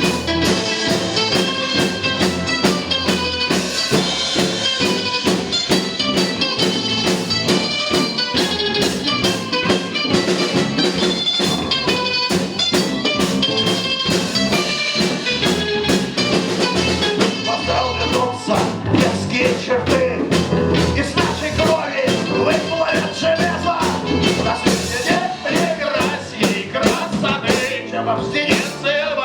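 Live band playing a blues-rock number, the drum kit keeping a steady beat under keyboards and other instruments. A wavering lead melody stands out from a little past the middle.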